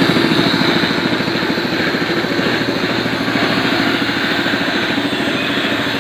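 Small petrol engine of a tofu (soybean) grinding machine running steadily at a fast, even beat.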